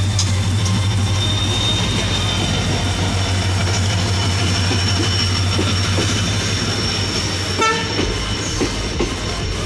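A train moving along the tracks: a steady low rumble with thin high-pitched wheel squeal over it. A short horn toot comes near the end, followed by a few wheel clicks on the rail joints.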